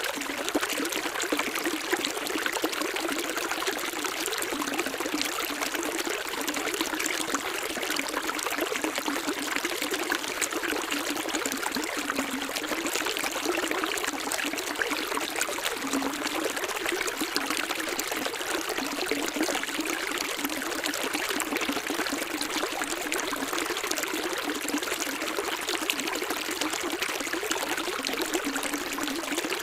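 Running water, a steady trickling and splashing rush that holds even throughout, with no lulls or single events.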